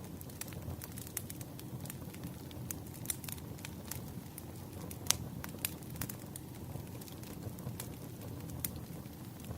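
Wood fire crackling: burning firewood giving off irregular sharp pops and snaps, the loudest about five seconds in, over a steady low rumble.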